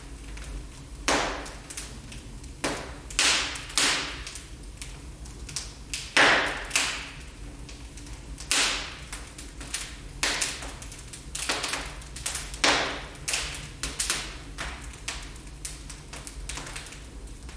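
Wood fire crackling in a fireplace: irregular sharp pops and snaps, some loud and some faint, over a low steady rumble.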